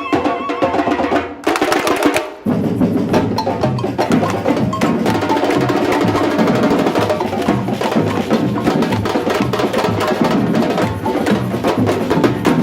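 Batucada samba percussion ensemble drumming, with deep bass drums on a steady beat under dense snare and sharp wood-block clicks. It kicks in about two seconds in, just after melodic music fades out.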